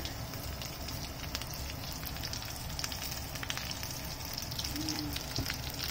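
Pre-boiled meat pieces and garlic cloves frying in oil in a nonstick pan: a steady sizzle with many small pops and crackles.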